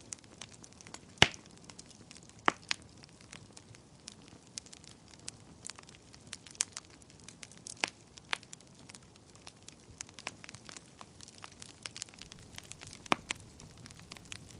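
Wood fire crackling in a fireplace: irregular sharp pops and snaps over a faint steady hiss, the loudest pop about a second in.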